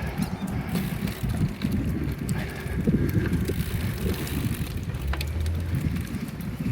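Riding a bicycle: a steady, fluttering low rumble of wind and tyre noise on the microphone, with a few faint clicks.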